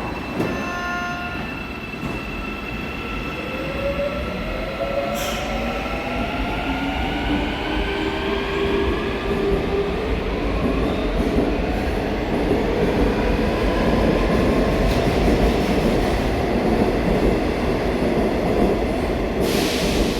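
Seoul Line 4 electric subway train accelerating, its traction motor whine rising in pitch in several tones over a growing rumble of wheels on rail.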